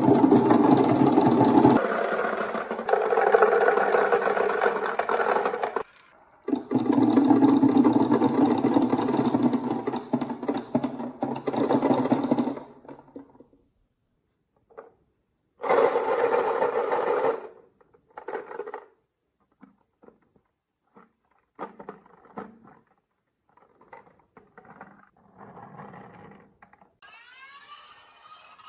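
Marbles rolling and rattling along a wooden marble run in long runs for the first half, then thinning to scattered clicks and short rolls.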